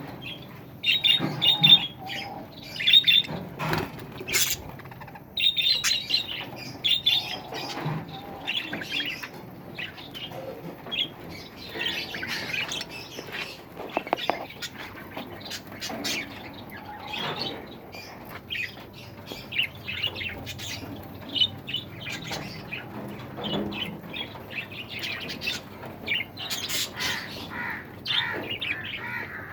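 Aviary birds chirping and squawking in many short calls, with busier bursts in the first several seconds.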